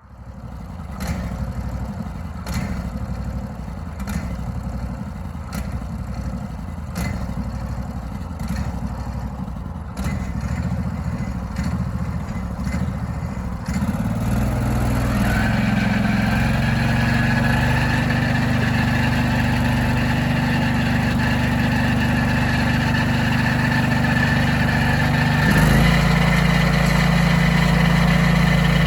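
Portable sawmill's engine starts and runs at low speed, with a regular click about every second and a half. About 14 seconds in it speeds up to a louder, higher steady run, and near the end there is a thump and a change in tone.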